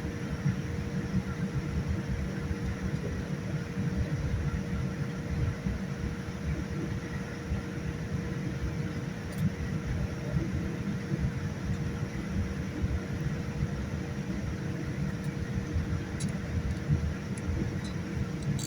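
Boeing 787-9 cabin noise: a steady low rumble with a thin constant hum above it, and a few faint ticks near the end.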